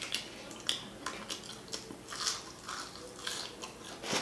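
Close-miked chewing with wet lip-smacking: a person eating fried fast food, with irregular smacks several times a second.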